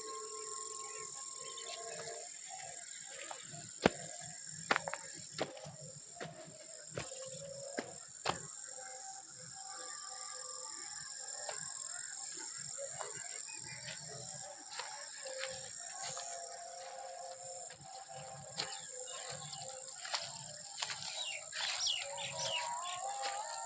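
Outdoor insects holding a steady high-pitched drone, with birds calling in short wavering notes and a few scattered clicks.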